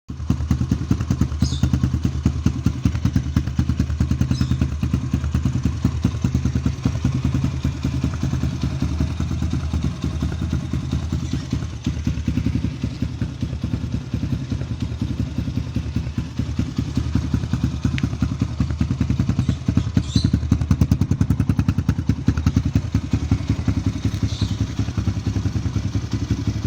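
Yamaha PW49's small single-cylinder two-stroke engine running at a steady, even pitch.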